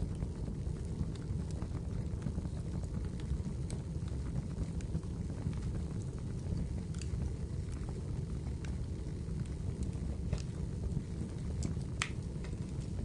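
Wood fire burning in a fireplace: a steady low rumble with scattered sharp crackles and pops, the loudest pop near the end.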